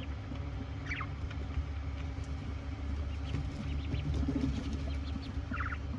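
A small bird's short, high chirps, twice (about a second in and near the end), over a steady low rumble, with faint scratchy ticks in between.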